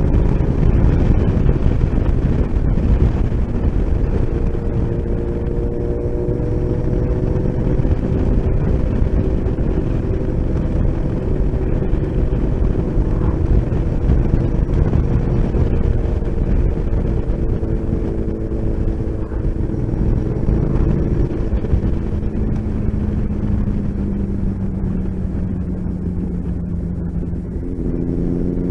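Motorcycle engine running at a steady cruise under heavy wind rush on the microphone; the engine note rises near the end as the bike accelerates.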